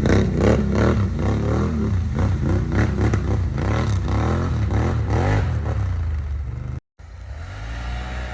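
Can-Am 850 XMR ATV's V-twin engine revving up and down over and over, about twice a second, with clattering. Near the end it cuts off abruptly and a quieter, steadier engine sound follows.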